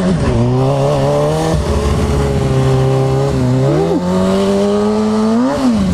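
Kawasaki ZX-6R sportbike's inline-four engine through a Two Brothers full exhaust system, ridden at steady moderate revs. The revs step up a little about two-thirds of the way in, then rise and drop quickly near the end, with wind noise over the microphone throughout.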